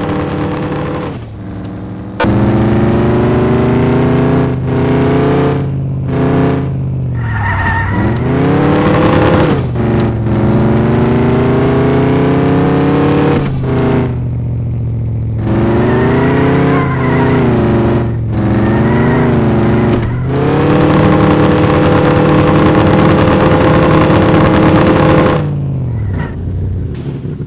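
Truck engine idling and being revved again and again, its pitch climbing with each rev and falling back toward idle; it drops back briefly twice along the way.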